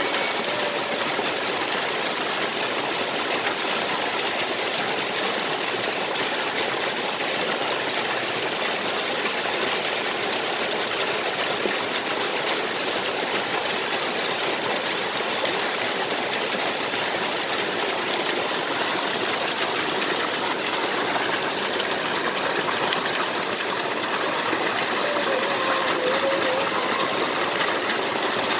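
Waterfall and stream water rushing in a steady, unbroken stream of noise.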